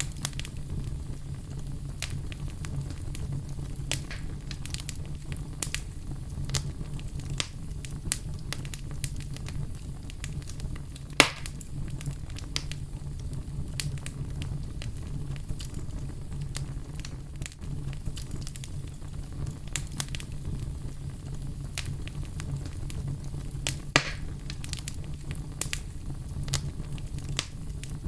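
A fire crackling, with irregular snaps and pops over a steady low rumble. Two pops stand out louder, one a little before the middle and one near the end.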